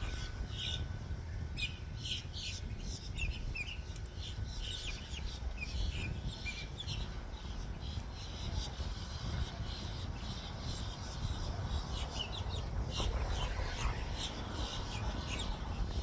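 Small birds chirping repeatedly in quick short notes over a steady low rumble.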